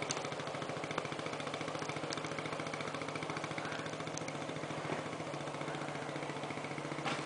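1974 Honda Trail 90's small single-cylinder four-stroke engine running steadily, an even rapid putter, fitted with a snow conversion kit.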